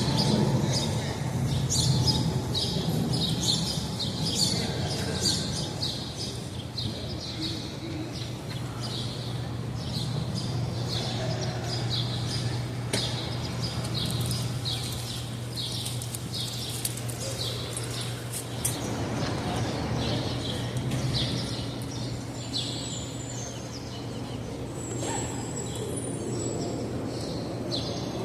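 Small birds chirping over and over in quick short notes, over a steady low hum of city background noise.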